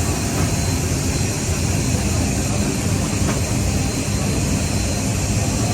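Jet aircraft engine noise: a steady, heavy rumble with a faint high whine over it.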